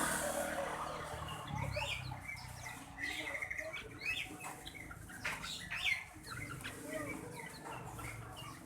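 Many caged birds chirping and calling together, with short overlapping calls throughout.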